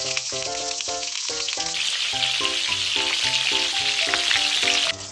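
Food frying with a loud, steady sizzle that cuts off suddenly just before the end, over background music of quick, short melodic notes.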